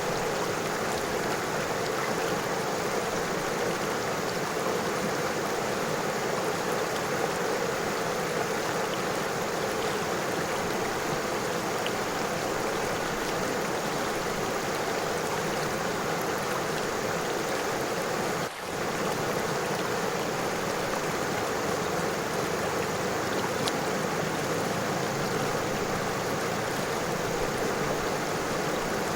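River water flowing and rippling over stones, a steady rushing sound that dips briefly once, about two-thirds of the way through.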